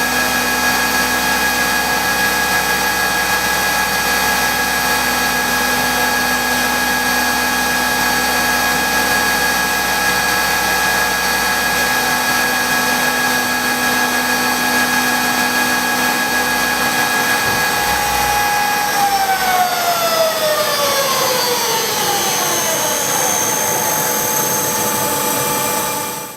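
Machine-tool spindle running with a steady high whine, then spinning down with its pitch falling over several seconds, starting about three-quarters of the way through.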